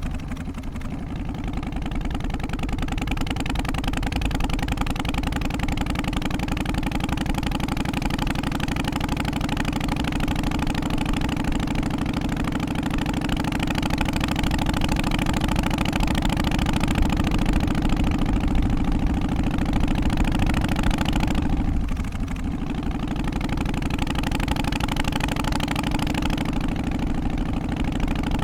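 Harley-Davidson Twin Cam 88 Softail's air-cooled V-twin running steadily at low revs, with a brief drop in engine note about three-quarters of the way through before it picks back up.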